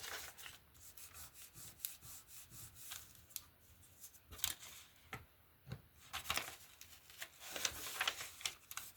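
Paper being handled and rubbed by hand: scattered rustles, scrapes and light taps, busiest near the middle and again toward the end.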